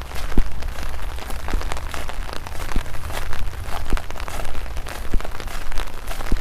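Light rain falling, with many drops spattering irregularly close to the microphone over a steady low rumble. A dull thud comes about every second, like walking footsteps.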